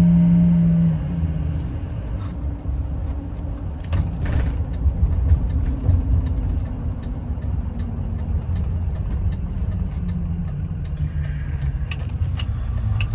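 A 2003 Ford F-250's 6.0 L Power Stroke V8 turbo-diesel running while the truck drives. A strong steady engine note falls away about a second in, leaving a lower even rumble with road noise.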